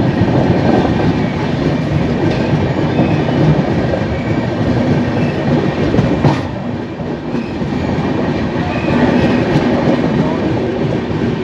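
Indian Railways passenger train running along the track, heard from the open door of a coach: a steady, loud rumble of wheels on rails. There is a sharp click about six seconds in, and the noise dips briefly just after it.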